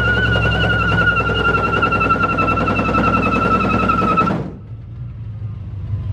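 Pickup truck with a locking positive-traction differential launching hard: engine rumble under load with a high, steady tire squeal that falls slightly in pitch. The squeal and most of the noise cut off suddenly about four seconds in, leaving a quieter engine rumble.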